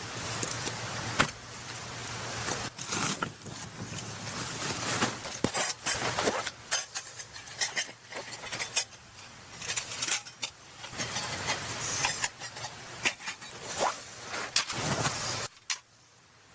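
Irregular knocks, clinks and rustling from a fire stand and firewood being handled and set out, cutting off suddenly near the end.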